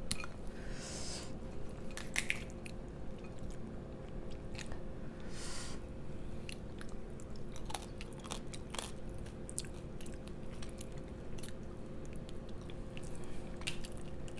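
Close-miked chewing and biting of food, with wet mouth sounds and scattered crunchy clicks.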